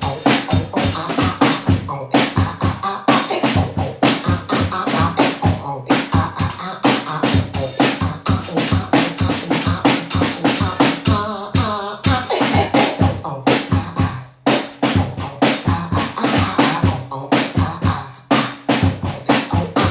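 A home-made electronic beat: fast, evenly repeating percussive hits layered with scratch-like sounds, and a brief wavering tone a little after the middle.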